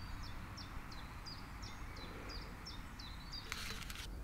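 A small bird calling over and over, a short high chirp that drops in pitch, about three times a second. A brief rustling hiss about three and a half seconds in.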